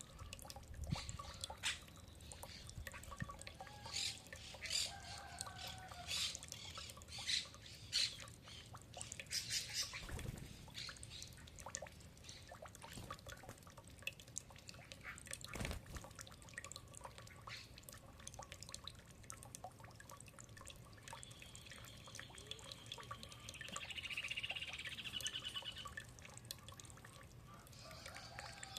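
Birds calling, with short gliding calls and, about two-thirds of the way through, a fast high trill lasting a couple of seconds. Sharp clicks and taps come in quick succession through the first third.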